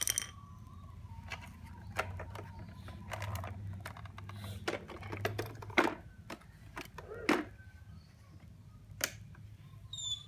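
Scattered, irregular clicks and knocks, like small hard objects being handled, over a low steady hum.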